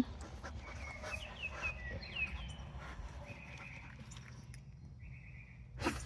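Faint outdoor birdsong: a run of short, high, falling chirps, then two short buzzy trills, over a low steady rumble.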